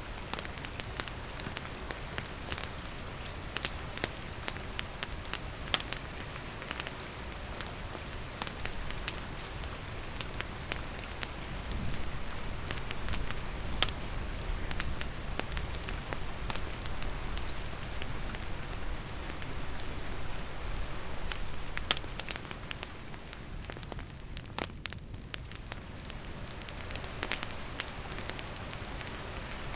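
Steady rain falling, mixed with a wood campfire crackling, its sharp pops scattered irregularly throughout.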